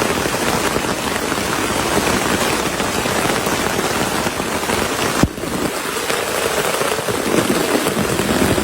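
Heavy rain falling steadily, a dense even hiss of drops, with a single sharp click about five seconds in.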